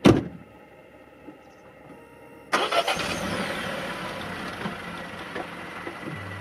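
A car's engine starting: a sharp thump at the very start, a faint hum, then a sudden loud start about two and a half seconds in, and the engine keeps running.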